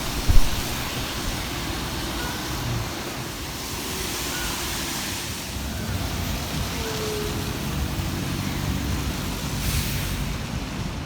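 City road traffic: a steady wash of passing cars and tyre noise, with a sharp thump about half a second in.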